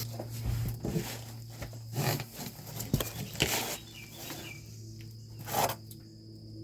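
Scattered knocks, clunks and rustles of work handling around a truck trailer's brake, over a steady low hum, with insects chirping now and then.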